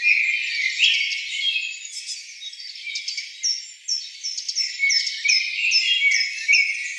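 Several small birds chirping and singing at once: a dense mix of high chirps and whistles, with a run of short falling notes repeated about twice a second in the middle.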